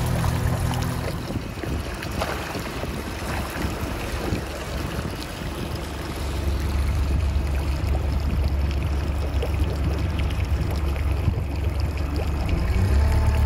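Tohatsu MFS 140 four-cylinder four-stroke outboard running at low speed, with its propeller churning the water and its cooling-water stream splashing. The engine's low hum grows stronger about six seconds in.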